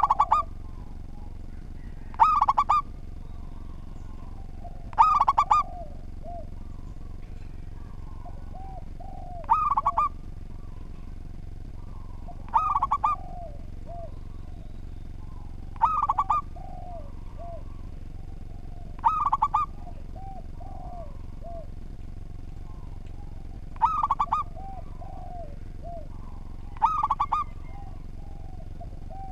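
Zebra dove (local perkutut) cooing repeatedly: a loud, short phrase of quick coos every few seconds, about nine in all. Softer, lower coo notes come between the phrases, over a steady low hum.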